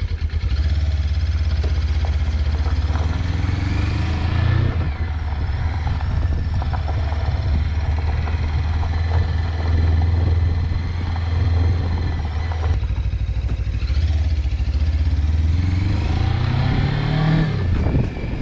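Suzuki V-Strom 250's parallel-twin engine running under way, its pitch rising as it accelerates a few seconds in and again near the end.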